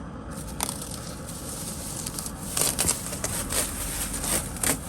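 Rustling, crinkling and light clicking of things being handled and packed up, growing busier about two and a half seconds in, over a steady low rumble.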